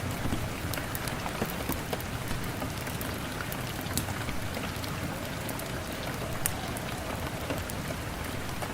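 Steady rain, with scattered sharp crackles and pops from a wood fire mixed in.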